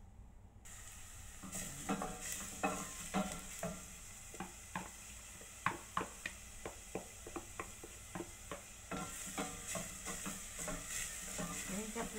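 Minced pork sizzling in olive oil in a stainless steel pot, with a wooden spatula scraping and knocking against the pot in irregular strokes as it is stirred.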